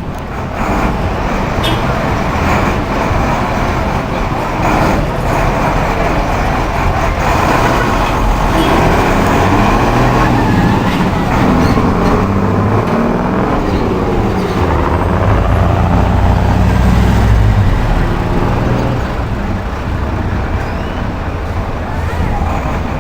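Mercedes-Benz OM 366 LA turbocharged inline-six diesel of a bus running loud through an open, muffler-less exhaust, its engine note rising and falling several times.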